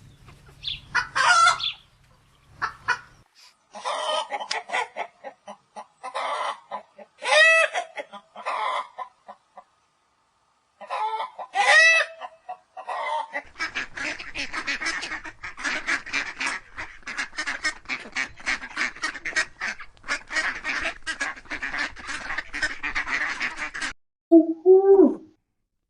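Farm poultry calling: loud, separate calls with an arching pitch, then about ten seconds of a flock's dense, continuous chatter, and a short lower call near the end.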